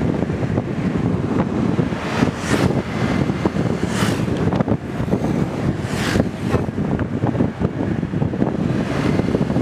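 Wind buffeting the microphone on a fast-moving motorbike, a loud, steady, ragged rush with engine and road noise underneath.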